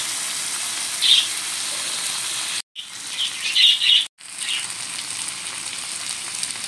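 Onion and spice masala sizzling on a tawa with a little added water, a steady hiss with short high chirps now and then. The sound cuts out completely for a moment twice.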